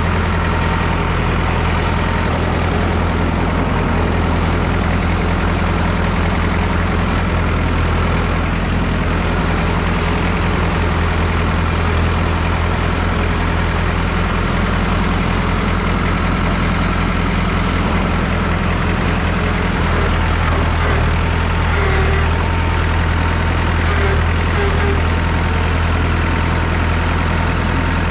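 Massey Ferguson 3165 tractor's diesel engine running steadily, its note shifting slightly about twenty seconds in.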